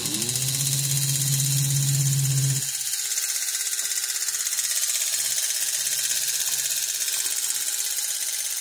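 Lionel postwar 671 locomotive's electric motor and gear train whirring on a bench test, spinning up with rising pitch the moment power is applied. About two and a half seconds in, the loud low hum drops away and the motor runs on with a steadier, lighter whir.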